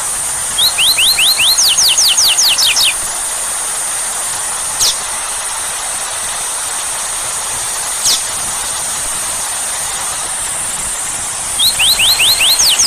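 Steady hiss of heavy rain. A bird sings over it twice: a quick run of rapid sweeping notes, about five a second, once near the start and again at the end. In between come two single high whistles that drop sharply in pitch.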